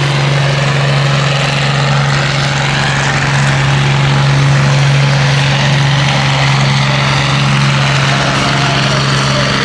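Tractor-pulling tractor's engine running loud and steady, holding one pitch throughout.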